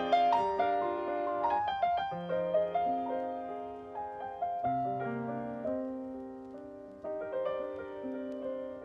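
Soft background piano music: slow, sustained notes that ring and fade.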